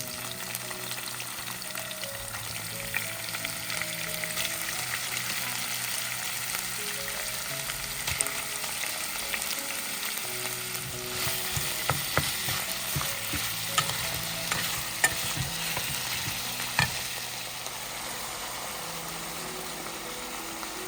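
Food sizzling in a hot pan while it is stirred, with scattered sharp clicks of a utensil against the pan, most of them in the middle stretch.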